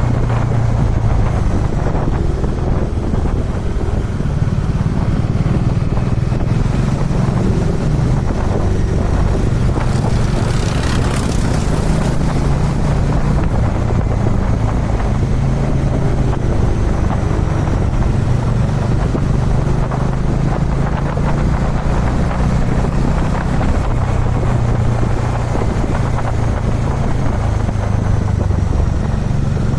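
Dominar 400 UG2's single-cylinder engine running steadily at cruising speed, with wind rushing past. About ten seconds in, a brief rushing hiss rises over it for a second or two.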